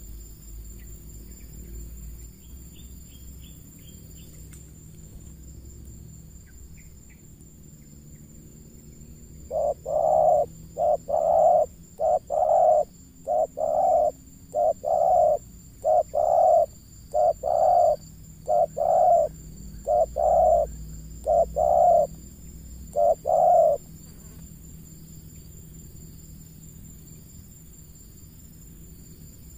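Spotted dove cooing: a run of about twenty short, low coos over some fourteen seconds, starting about ten seconds in, with steady insect trilling behind.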